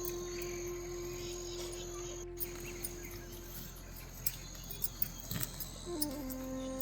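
Background music of long held notes that step down to a lower pitch near the end, over a steady high insect trill.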